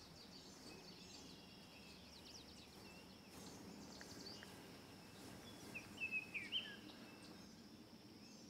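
Faint outdoor ambience with small birds chirping, a quick cluster of louder chirps about six seconds in.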